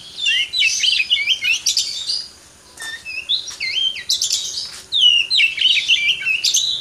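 Oriental magpie-robin (kacer) singing a fast, varied song of whistled notes and swooping phrases, pausing briefly about two and a half seconds in.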